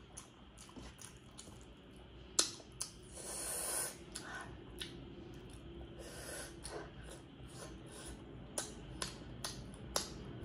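Close-up mouth sounds of someone chewing food: scattered wet smacks and clicks, the sharpest about two and a half seconds in, with a breathy huff of air through the nose a little after.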